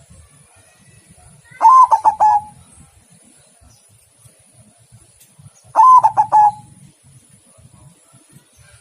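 Zebra dove (perkutut) singing: two short cooing phrases about four seconds apart, each a quick run of rolling coo notes.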